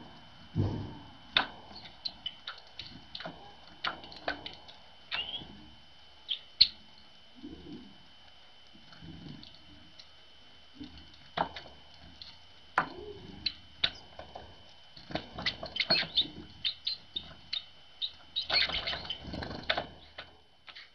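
Irregular sharp taps and wing flutters of great tits coming and going at a hanging milk-carton feeder and its wooden perches, busier in the second half.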